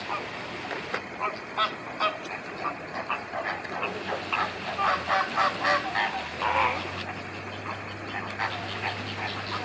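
A flock of flamingos honking, with many short calls overlapping in a continual chatter.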